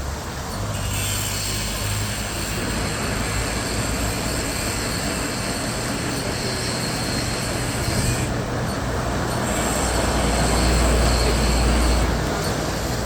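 Autoequip/Degama Fly 28 rollover car wash running: steady hiss with machine noise and a low hum. The hum gets louder about ten seconds in and eases off near the end.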